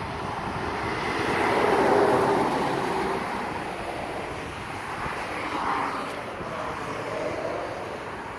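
A truck passing on the road, its sound swelling to a peak about two seconds in and then fading away. A smaller rise follows a few seconds later.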